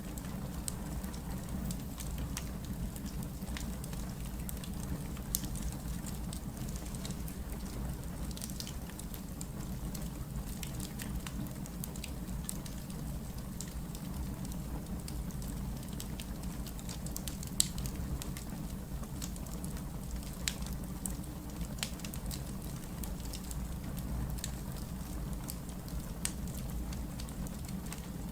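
Wood fire crackling: irregular sharp pops and snaps over a steady low rumble, with one louder pop a little past the middle.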